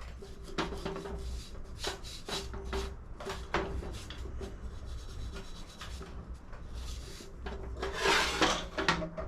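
Repeated short scrubbing strokes of a polish-like paste being rubbed onto the textured surface of an alloy gearbox casing, irregular in rhythm, with one longer, louder stroke near the end.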